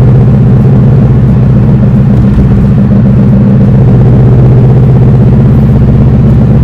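Car engine running steadily at cruise, a loud, even drone with no revving.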